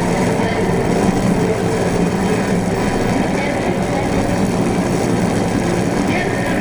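Experimental drone and industrial noise music: a dense, steady wall of rumbling, machine-like noise over a held low hum, with no pauses.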